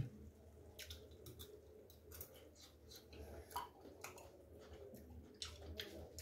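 Faint chewing of a mouthful of scrambled egg and tomato, with scattered light clicks over a low steady hum.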